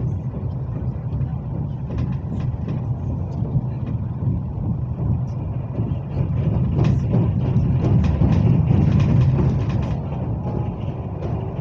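Interior running noise of a Hyundai Rotem HRCS2 electric train at speed: a steady low rumble from the wheels on the track, with scattered light clicks. It grows louder for a few seconds past the middle.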